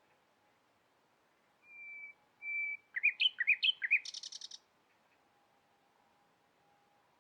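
A songbird singing one phrase: two steady whistled notes, then a quick run of rising slurred notes ending in a short, buzzy trill.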